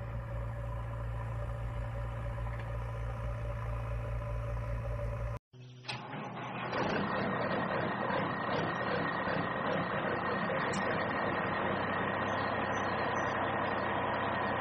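Small electric motor of a DIY toy vehicle running steadily, with a hum; it cuts off suddenly about five seconds in, and after a short pause a higher, noisier whirr runs steadily on.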